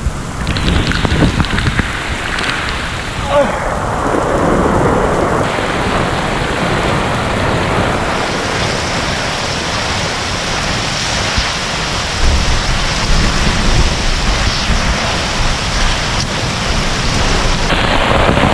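Heavy tropical rain pouring steadily, with low rumbles of thunder.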